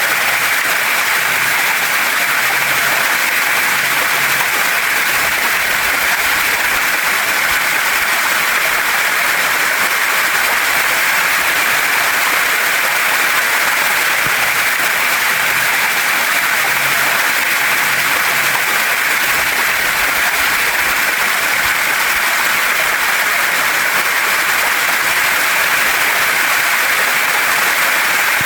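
Waterfall and mountain stream: water rushing and splashing over rocks in a steady, unbroken rush that stays even throughout.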